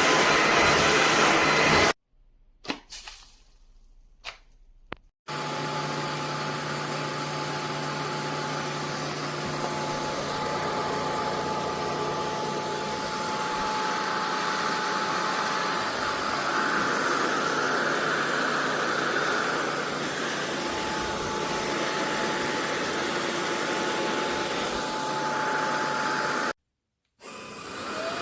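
SunSare X11 cordless stick vacuum running with a steady whine. The sound drops out for about three seconds, with a few faint clicks, then the vacuum runs on steadily and cuts out briefly near the end.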